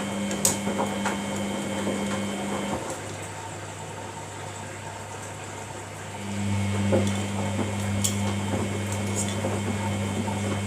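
Samsung front-loading washing machine filling for its final rinse: the water inlet valve hums steadily as water runs in. It shuts off about three seconds in and opens again, a little louder, about six seconds in.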